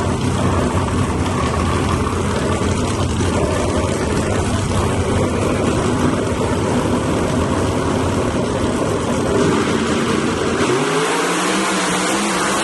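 Loud drag-racing car engine noise, a dense rumble. Near the end one engine revs up, its pitch climbing and then holding.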